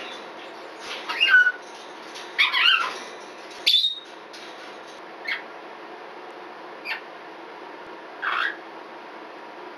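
Red-bellied parrot calling: a string of short separate calls, the loudest three in the first four seconds, the third a sharp upward sweep. Three briefer, quieter chirps follow at intervals.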